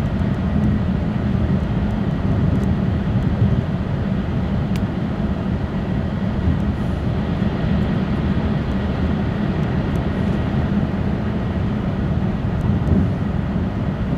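Steady interior running noise of an E6 series Shinkansen car travelling at high speed: a low rumble with a hiss above it.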